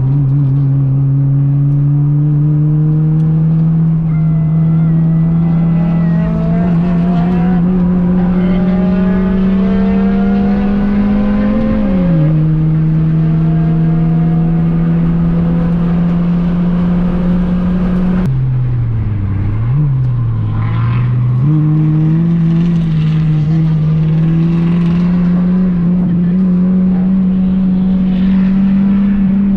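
Honda Fit's 1.5-litre four-cylinder engine running hard at high revs on track, its pitch climbing slowly. The pitch drops once about twelve seconds in, then falls further about eighteen seconds in and flicks up and down briefly before the engine pulls and climbs again.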